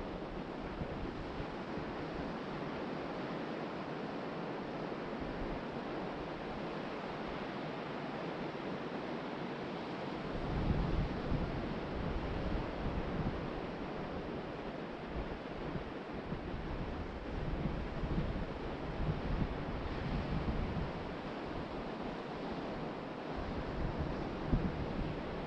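Ocean surf breaking and washing steadily on the beach. From about ten seconds in, gusts of wind buffet the microphone in uneven bursts, easing off near the end.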